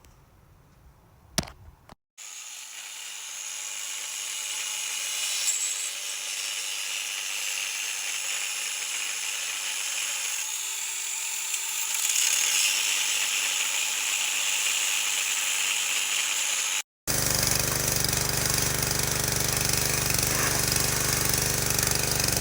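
Cutting torch hissing steadily while burning off seized flywheel bolts, growing slowly louder. Near the end it cuts to a steady, lower mechanical rumble.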